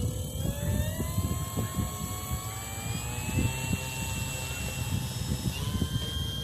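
Grand Tundra RC plane's motor and propeller whining, the pitch rising steadily as the throttle opens and stepping higher about five and a half seconds in. Wind buffets the microphone throughout.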